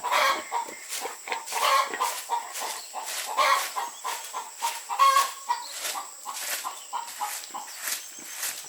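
Chickens clucking in short calls every second or two, among a run of short, sharp knocks or scrapes.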